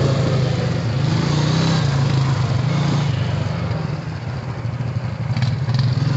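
Honda Rancher ATV's single-cylinder engine running along at part throttle, its note rising and easing a little. It drops back about four seconds in, with a few brief knocks near the end.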